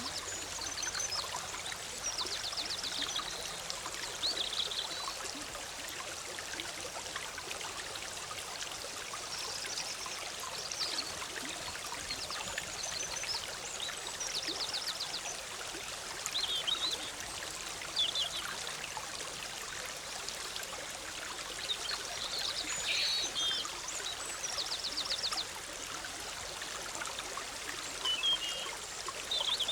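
Forest stream bubbling steadily over rocks, with small birds singing short high-pitched phrases over it; one rapid trilled phrase recurs about three times.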